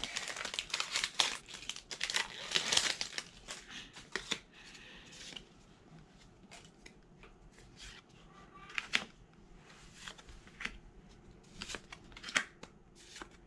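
Foil wrapper of a Pokémon booster pack crinkling and tearing open for the first four seconds or so, then soft, scattered ticks and slides of the trading cards being handled one by one.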